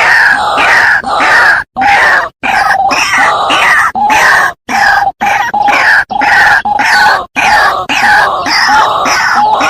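White-breasted waterhen (ruak-ruak) lure recording: harsh, croaking calls repeated rapidly, about twice a second. Several brief silent dropouts break the calling.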